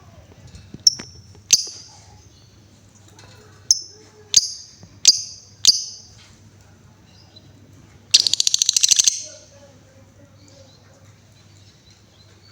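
Female lovebird calling: six sharp, high chirps spread over the first six seconds, then about eight seconds in a fast, buzzy rattling trill lasting about a second. This is the 'ngetik' chatter running into the 'ngekek' trill that Indonesian bird keepers prize.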